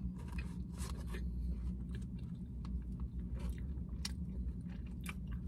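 Close-up mouth sounds of chewing falafel and pita: wet smacking and crunching with many short clicks, over a steady low hum.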